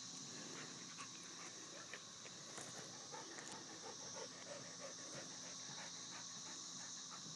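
Steady high drone of a chorus of 13-year periodical cicadas, with faint small clicks and crunches of a dog chewing cicadas close by.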